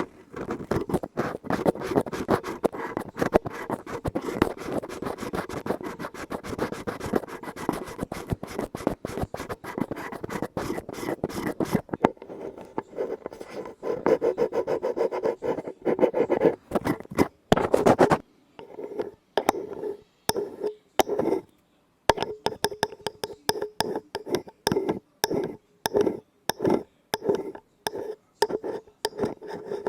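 Close-miked ASMR scratching and tapping on an object. For roughly the first half it is a dense run of rapid scratches; after a short, sparser stretch it turns into separate strokes at about two a second.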